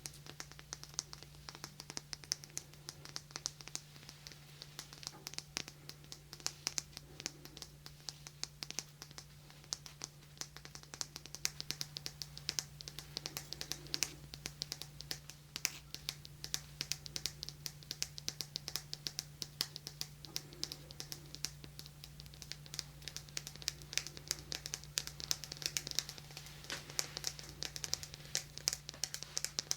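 Rapid, light fingertip tapping and scratching close to a binaural microphone, a constant stream of small clicks. A steady low hum runs underneath.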